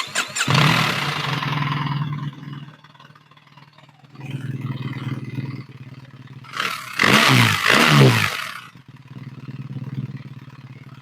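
BMW R1300 GS boxer-twin engine, on its standard exhaust, started up and running, then given two quick throttle blips about seven seconds in that rise and fall in pitch, before settling back to idle.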